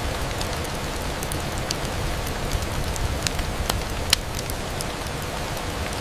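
Steady rain, with scattered sharp ticks over it; a few louder ticks come a little past the middle.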